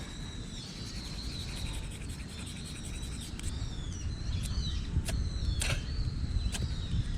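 Ferrocerium fire-starter rod scraped with its striker several times from about three seconds in, each a short sharp scrape, one a little longer near the end, trying to throw sparks into tinder. Birds call in the background.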